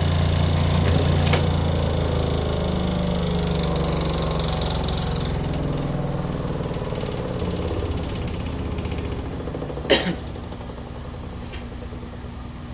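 Spin-dryer tub of a portable twin-tub washer running with a steady mechanical hum that gradually grows quieter as it winds down. A few light clicks come near the start and one sharp knock about ten seconds in.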